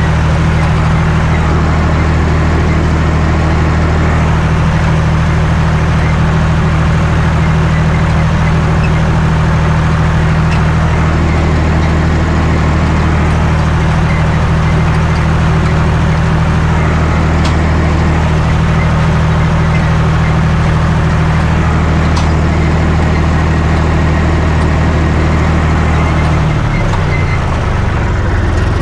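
John Deere 1030's three-cylinder diesel engine running at a steady speed while working a hay tedder. Near the end the engine speed drops.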